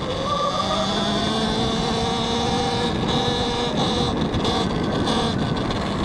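Talaria X3 electric dirt bike riding under power, its motor whining with a pitch that rises in the first second and then holds, over heavy wind and riding noise on a helmet mic.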